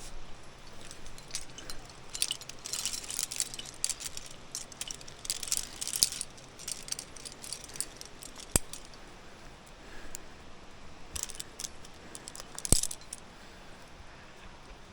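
Metal climbing gear (carabiners and protection racked on a harness) jangling and clinking in clusters during a rappel, with two sharp metallic clicks, one about halfway through and a louder one near the end.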